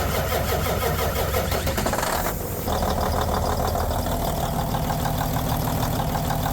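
Semi-truck diesel engine running steadily.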